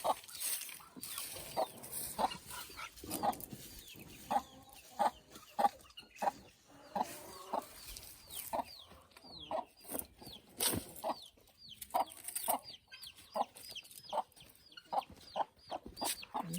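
Chickens clucking over and over in short separate calls, with higher, falling chirps mixed in.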